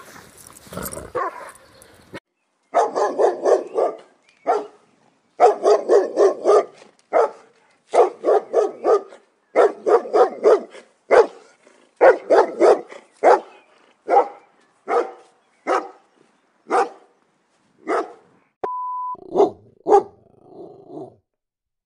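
A dog barking in fast runs of several barks a second, then single barks about a second apart toward the end. A short steady beep sounds near the end.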